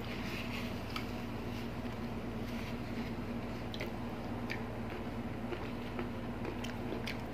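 Close-miked eating sounds: quiet chewing with a few short, sharp mouth clicks and smacks, over a steady low hum.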